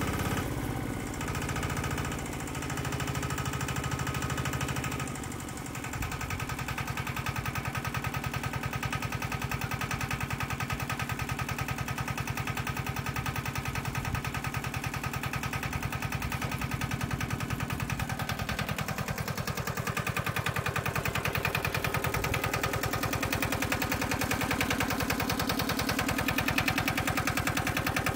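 Petter AC1Z diesel engine running steadily. About six seconds in the sound changes, and from then on its firing pulses come through as a fast, even chugging.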